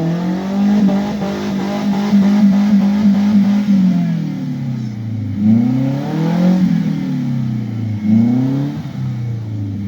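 Off-road 4x4's engine running hard at steady revs for about three and a half seconds, then revving up and down over and over, about once a second.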